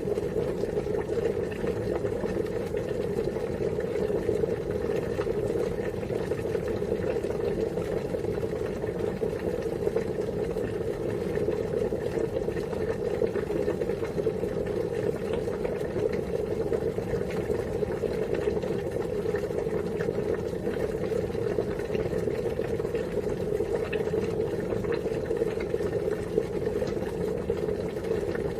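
Water at a steady rolling boil, a continuous bubbling rumble with fine crackle from bursting bubbles.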